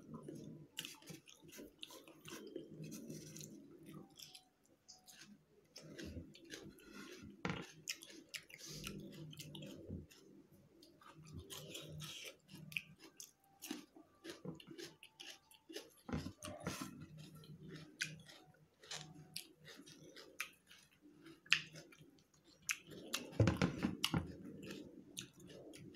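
Close-up chewing of a mouthful of rice eaten by hand, with many small wet clicks. It gets louder for a moment about 23 seconds in.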